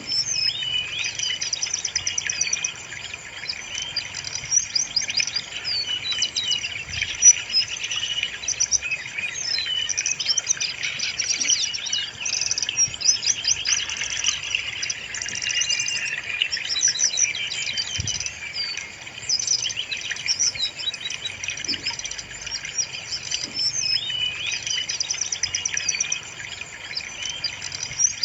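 Brown-chested jungle flycatcher singing: a dense, unbroken run of rapid, varied high chirps, trills and quick whistled slurs.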